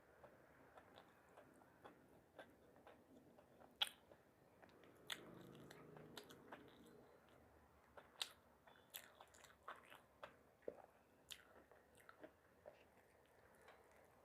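Close-miked eating sounds: chewing with irregular sharp mouth clicks and soft crunches, the loudest click about four seconds in.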